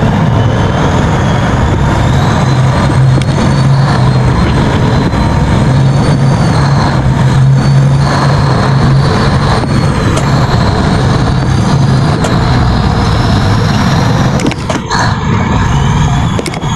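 Tugboat's diesel engines running loud and steady under working load, with a faint high whine that drifts slightly in pitch.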